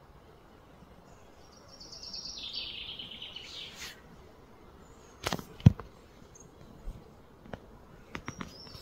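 A bird calls a rapid stuttering run of high notes that steps down in pitch over about two seconds, over a faint steady hiss. A little past the middle come two sharp knocks, the loudest sounds here, followed near the end by a few lighter clicks.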